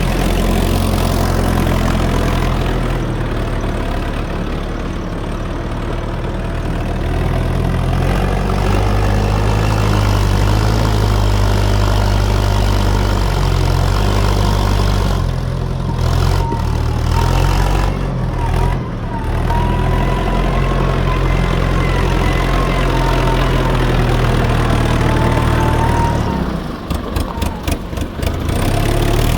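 Fordson E27N tractor's Perkins P6 six-cylinder diesel engine running steadily, its speed rising and falling several times, with a wavering whine in the middle stretch and a run of knocks near the end.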